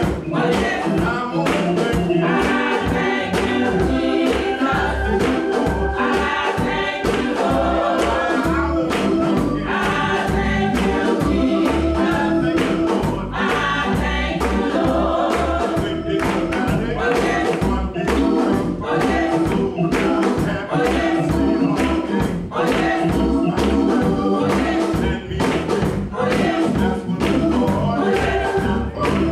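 Baptist church choir singing gospel music with accompaniment, over a steady beat.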